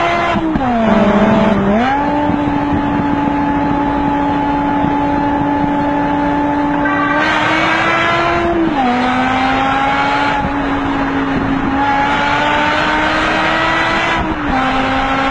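A vehicle engine running at high revs, holding a steady pitch. The pitch dips briefly about a second in, then drops twice later on and climbs slowly between the drops.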